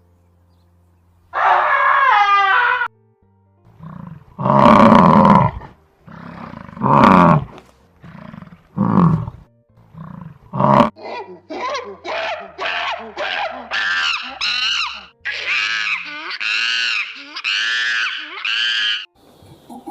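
An animal calling loudly over and over: one call, then calls about two seconds apart, turning into a quicker run of about two calls a second after about ten seconds. Faint background music plays underneath.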